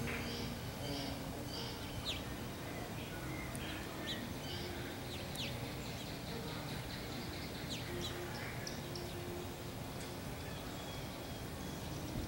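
Wild birds chirping and calling off and on, short high sweeps and twitters, over a steady low outdoor background noise.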